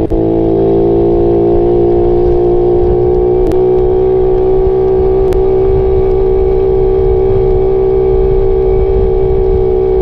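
Suzuki Raider 150 motorcycle's single-cylinder four-stroke engine running under way at a steady, high pitch, with two short clicks partway through.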